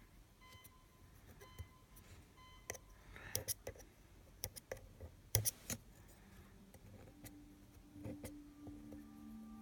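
Scattered small clicks and taps of tools handling a rebuildable atomiser deck while cotton wicks are tucked into its juice channels. The sharpest click comes about five seconds in. Faint background tones run underneath, short repeated ones at first and lower steady ones from about six seconds in.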